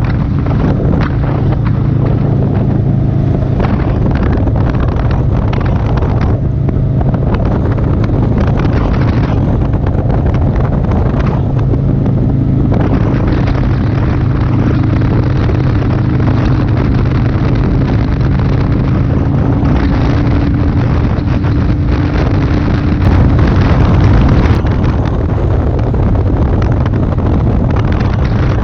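Motorcycle engine running steadily at cruising speed, with wind noise buffeting the microphone; a brief louder gust about 23 seconds in.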